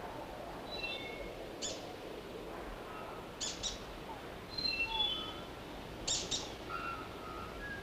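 Forest birds calling over a steady background hiss. A quick run of clear whistled notes steps down in pitch about every four seconds, and sharp short calls come singly or in quick pairs in between.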